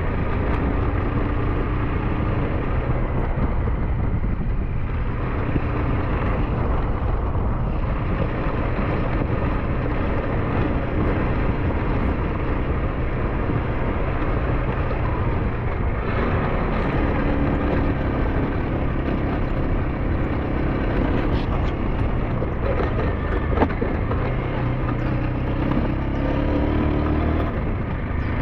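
SYM NH T 200 motorcycle's single-cylinder engine running steadily while riding, its note shifting a few times, under a constant rush of noise.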